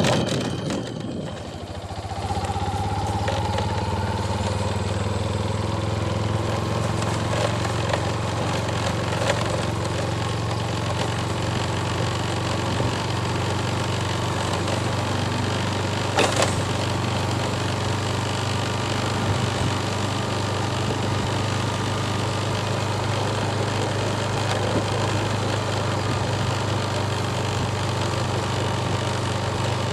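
An engine comes up about two seconds in and then runs steadily with a low, even hum. A single sharp click sounds about sixteen seconds in.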